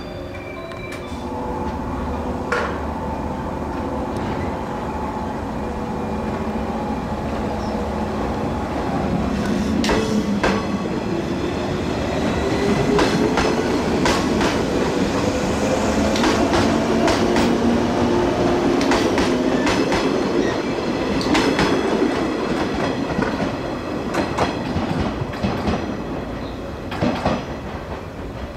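Electric multiple-unit commuter train moving off: its traction motor whine rises steadily in pitch as it gathers speed, while the wheels clack over rail joints in repeated groups. The sound grows louder through the middle and eases off toward the end.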